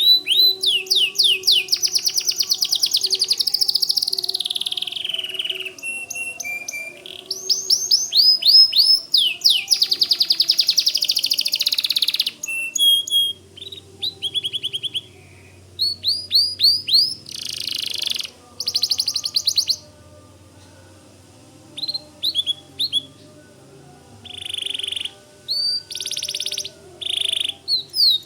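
White domestic canary singing: fast runs of short rising chirps and buzzy rolls, in phrases broken by short pauses, with sparser song in the second half.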